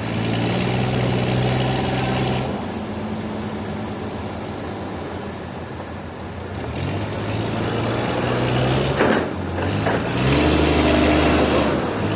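An engine running, its speed dropping and then building up again, with a sharp knock about nine seconds in.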